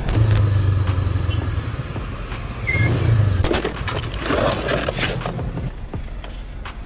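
Road vehicle noise with a low engine hum, starting with a sudden loud burst. About four seconds in comes a stretch of scraping, crunching clatter, like a road crash.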